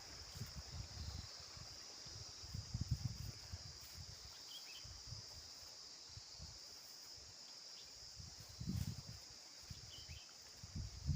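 Faint, steady high-pitched chorus of insects, with low rumbles and bumps coming and going, loudest about three seconds in and again near the end.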